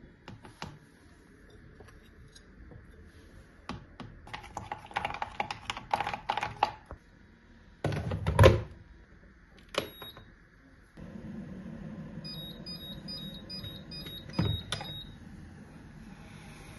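Household handling sounds: a run of light clicks and knocks, then one loud thump. Then a steady low hum starts, with a quick row of short, evenly spaced high electronic beeps over it.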